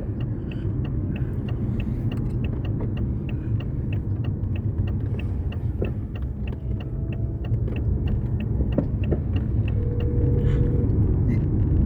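Car running with a steady low rumble, and a light, regular ticking about four times a second.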